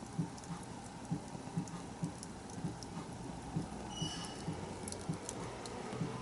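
Wood fire burning, with irregular crackles and pops. A brief high whistle sounds about four seconds in.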